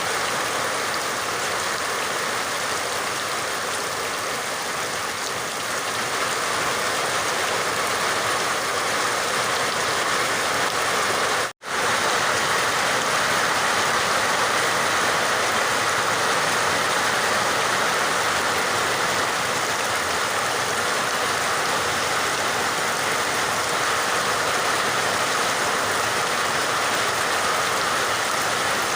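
Steady rain, a dense even hiss with no distinct drops standing out. It cuts out completely for a split second about a third of the way through, then resumes slightly louder.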